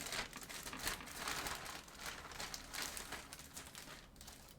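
Plastic packaging being handled and crumpled, with a dense, irregular crinkling and rustling.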